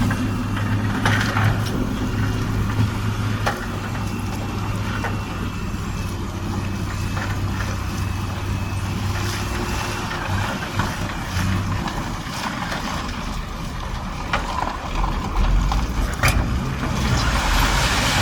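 Diesel engine of heavy earthmoving machinery running steadily, with scattered sharp knocks. The engine drone eases off about two-thirds of the way through, and a broad hiss rises near the end.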